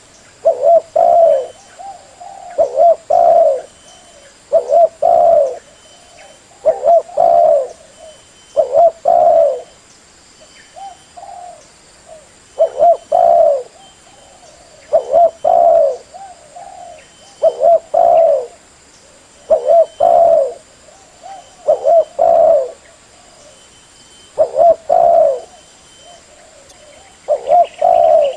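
Spotted dove cooing: a short phrase of low, mellow coos repeated about every two seconds.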